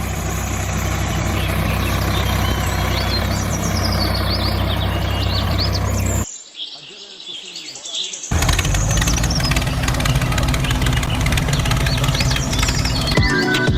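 An engine idling steadily with a low, even hum, with birds chirping over it. It drops away for about two seconds midway, then comes back.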